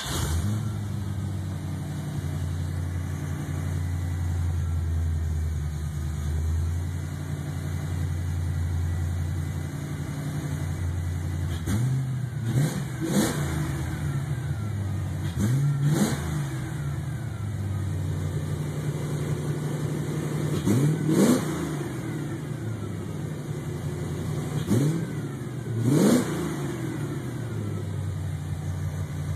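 Fox-body Ford Mustang's 5.0 V8, running on Megasquirt II engine management, idles steadily. From a little before halfway on, the throttle is blipped about seven times, each rev rising quickly and falling back to idle. The owner says the idle still needs a little tweaking.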